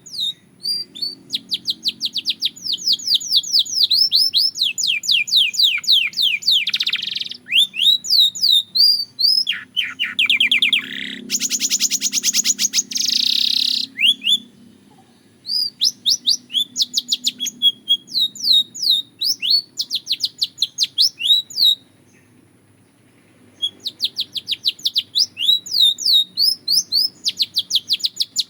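Belgian canary singing in rapid trills of quick, repeated down-slurred notes, with a denser, faster roll midway through the song. The singing breaks off twice in short pauses.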